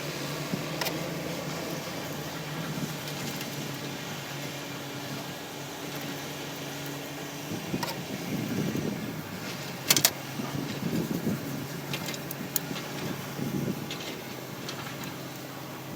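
Engine running with a steady low hum, which stops or changes about seven and a half seconds in. Irregular clattering follows, with a sharp click about ten seconds in.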